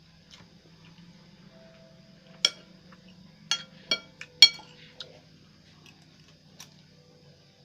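Metal cutlery clinking against a plate or bowl while eating noodles and rice: about five sharp, ringing clinks in the middle, the loudest about four and a half seconds in.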